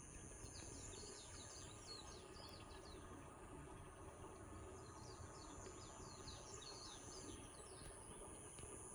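Faint woodland ambience: a songbird sings two phrases of rapid high chirps over a steady high-pitched insect drone.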